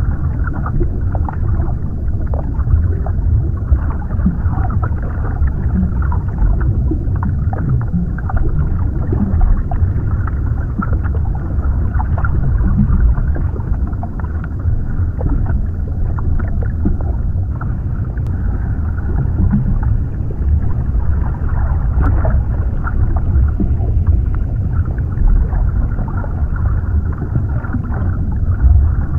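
Underwater ambience: a steady, muffled low rumble of water, with small bubbling and crackling ticks scattered through it.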